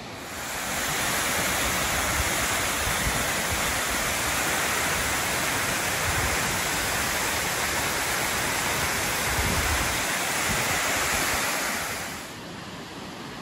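Aber Falls, a very large waterfall, with its water rushing in a steady roar that swells louder about half a second in and drops back near the end. Wind rumbles on the microphone underneath.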